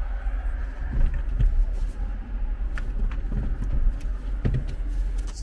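Steady low rumble of road traffic, with a few faint clicks and knocks.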